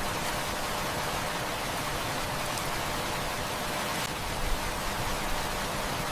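Steady heavy rain falling, an even rushing hiss, with a few faint sharp clicks about four seconds in.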